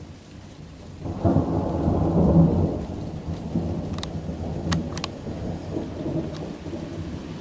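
A deep clap of thunder breaks about a second in and rolls on as a low rumble, slowly fading, with rain falling throughout.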